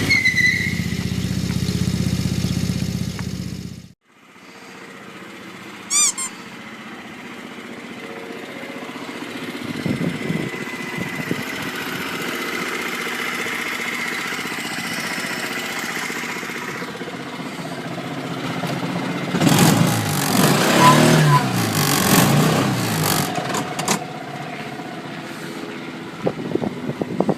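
Small petrol engine of a miniature car running steadily, cut off abruptly about four seconds in. A quieter engine follows, swelling louder with its pitch shifting up and down about two-thirds of the way through.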